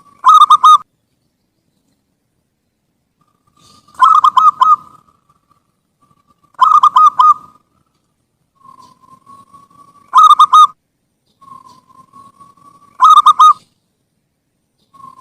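Zebra dove (perkutut) singing: five phrases about three seconds apart. Each is a soft rising note followed by a loud, quick run of stuttering coos.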